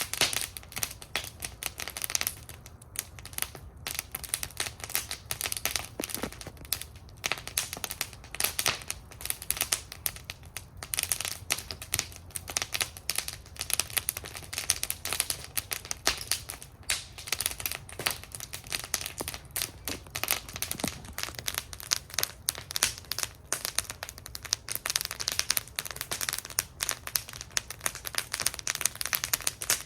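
Wood fire burning in a fire bowl, crackling steadily with dense, irregular snaps and pops over a low rumble.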